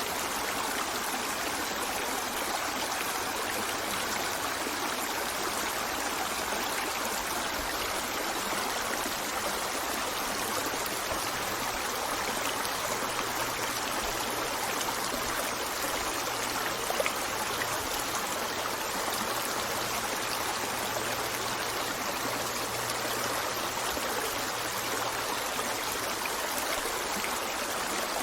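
A stream running steadily over rocks, an even, unbroken rush of water.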